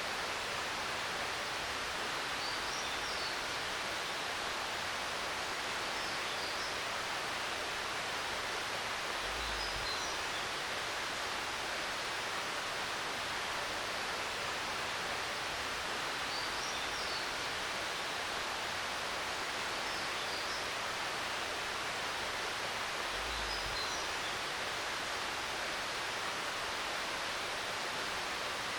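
Steady rush of flowing mountain water. Faint high bird chirps recur every three to four seconds.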